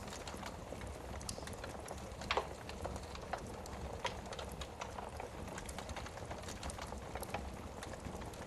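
Wood burning in a fireplace: irregular crackles and pops over a low, steady rumble, with one louder pop a little over two seconds in.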